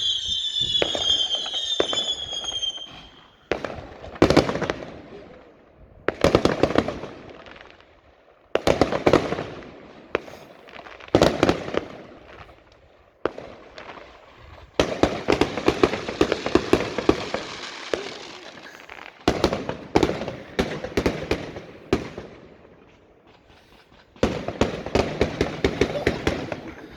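Fireworks going off. A whistling firework falls in pitch at the start, then come repeated bursts of bangs and crackling, with long dense crackling runs about halfway through and near the end.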